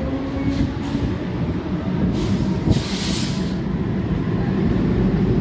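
Electric suburban local train pulling out of a station: steady running rumble of wheels and motors, slowly getting louder as it gathers speed, with brief bursts of hiss about two and three seconds in.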